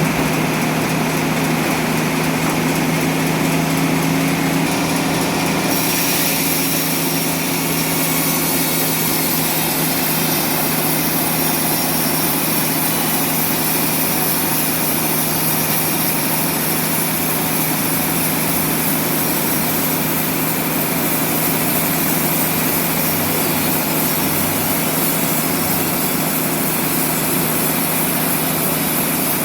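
Sawmill machinery running steadily: an engine-like drone holding one pitch, with a hiss over it that changes about six seconds in.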